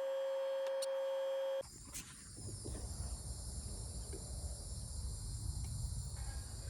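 A steady high-pitched hum that cuts off abruptly about a second and a half in. It gives way to outdoor ambience: insects chirring steadily, with a low rumble of wind on the microphone.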